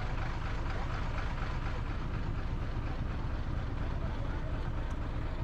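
Motorcycle engine running steadily during a ride, a continuous low rumble mixed with road and wind noise, cutting off abruptly at the very end.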